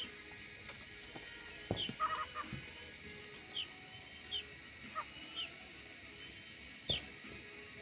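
Aviary birds calling, short falling chirps repeated every second or so, with a couple of low thumps in between.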